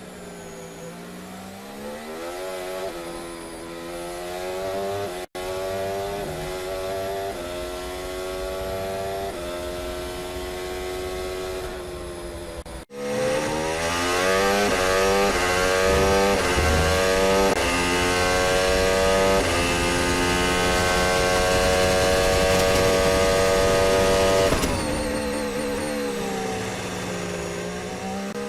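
Race car engine revving up through the gears: the pitch climbs and drops back at each shift, then falls away as it slows near the end. The sound cuts off abruptly about five and thirteen seconds in and comes back louder after the second cut.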